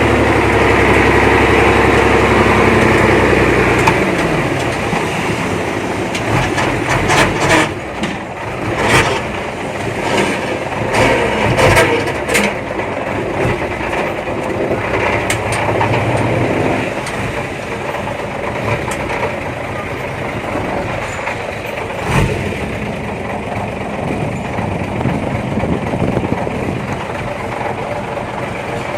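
Heavy diesel earthmoving machinery. A steady engine note for about four seconds drops away in pitch, then gives way to rough mechanical running with scattered knocks and rattles, busiest a few seconds later.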